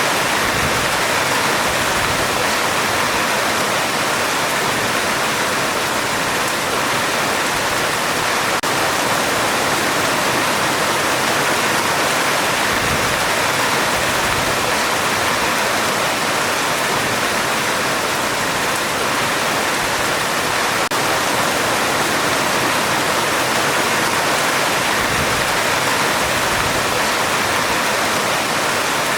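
Heavy rain falling steadily on a metal roof, an even hiss of drops without let-up.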